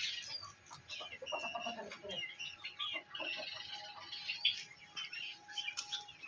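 Caged small birds chirping: many short, scattered high chirps, with a faint steady hum from about halfway through.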